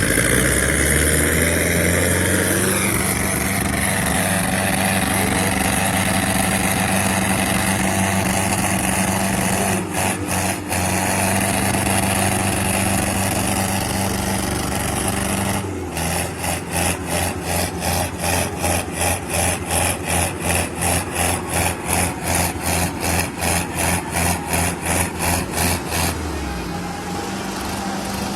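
Sonalika tractor diesel engines running hard under load. About halfway through, the sound starts pulsing roughly four times a second, and near the end the deep engine note falls away.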